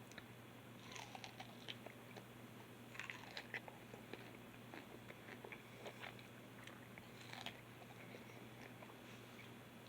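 A person biting into and chewing juicy, soft fruit close to the microphone: quiet wet clicks and smacks that come in short clusters about a second in, around three seconds, and again near six and seven seconds.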